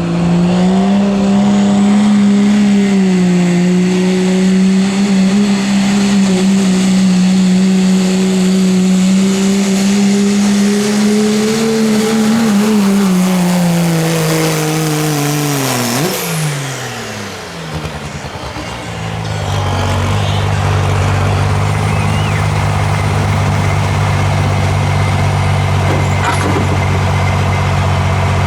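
Diesel pickup in the 2.6 turbo class held at high, steady revs under load during a truck pull. About twelve seconds in the revs fall away, with a high turbo whistle winding down. From about two-thirds of the way through, a lower, steady engine note runs.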